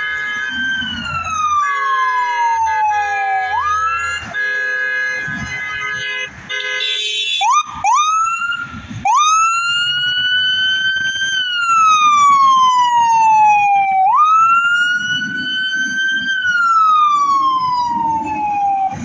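Fire engine siren in wail, rising quickly and falling slowly in cycles of about four to five seconds, with a steady air horn chord sounding under it for the first several seconds. About halfway through, the siren gives a few quick yelps before returning to the wail, over the low rumble of the truck.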